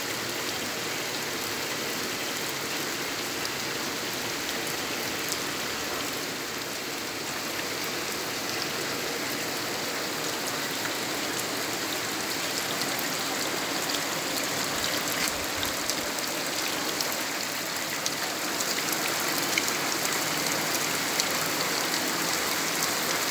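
Heavy rain in a steady downpour, with scattered drops ticking on close surfaces; it grows a little louder in the second half.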